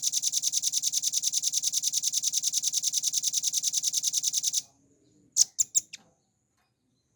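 Velvet-fronted nuthatch singing a long, fast, even trill of high notes, about eleven a second, for about four and a half seconds. About a second after the trill stops it gives three or four short sharp notes.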